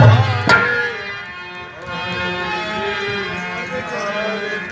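A male voice singing a Hindi devotional kirtan melody in long, held notes over steady instrumental accompaniment. A deep drum stroke at the start and a sharp percussion hit about half a second in.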